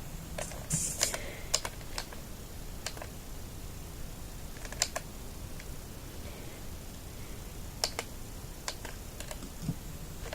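Irregular sharp plastic clicks, about a dozen spread unevenly, from switch buttons being pressed to work the lights of a Siku Scania model truck.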